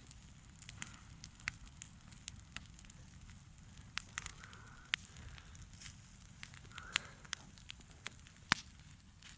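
Wood bonfire burning: irregular sharp pops and snaps of crackling firewood over a low steady background.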